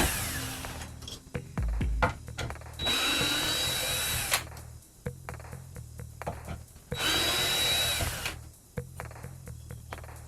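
Power drill running in three short bursts of one to one and a half seconds each, with a steady high whine while it spins and scattered clicks and knocks between bursts, over background music.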